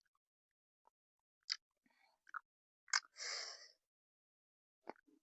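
Close-mic mouth sounds of someone chewing thick, creamy instant noodles: a few separate wet smacks and clicks, with a short breathy hiss about three seconds in.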